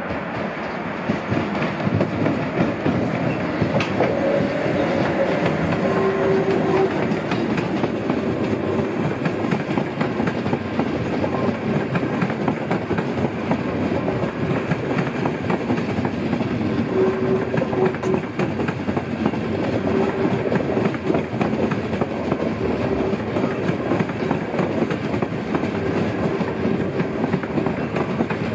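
Locomotive-hauled electric passenger train of intercity coaches rolling past at close range: a steady rumble of wheels on rail with a clickety-clack over the rail joints, and a faint tone that comes and goes.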